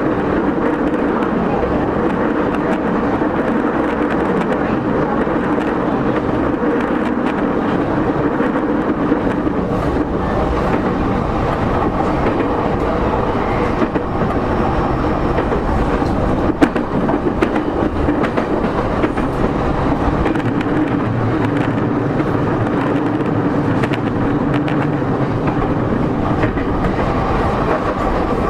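Running sound of a JR East E231-0 series commuter EMU heard from inside its motor car: a loud, steady mix of traction-motor noise and wheels on rail while under way. A single sharp knock comes a little past halfway.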